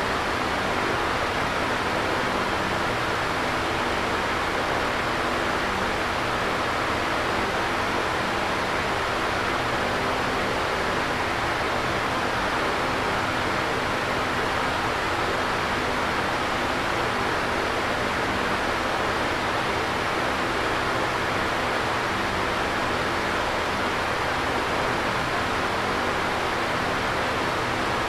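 Electric fan running steadily: an even, unchanging rush of moving air with a faint low hum under it.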